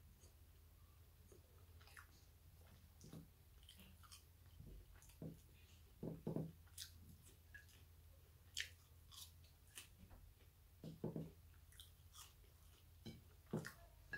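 A person quietly chewing mouthfuls of chips, with scattered short mouth clicks and smacks; a few louder ones come about six seconds in and again about eleven seconds in.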